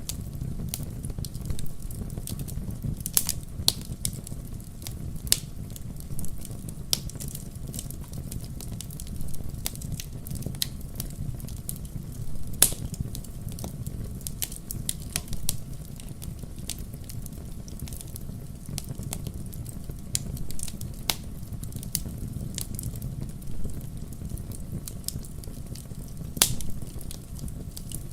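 Wood logs burning in a fireplace: irregular crackles and pops over a steady low rumble of the flames, with a few sharper pops about 3, 12 and 26 seconds in.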